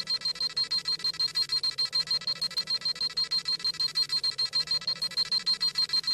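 Dragon Ball Z scouter sound effect: a rapid, high-pitched electronic beeping at about eight beeps a second, the scouter scanning and reading a power level.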